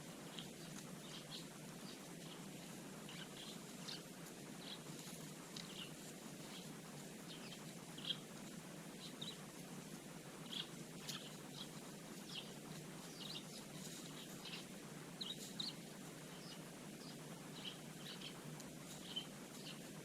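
Eurasian tree sparrows chirping, many short scattered chirps, the loudest about 8 seconds in, over steady low background noise.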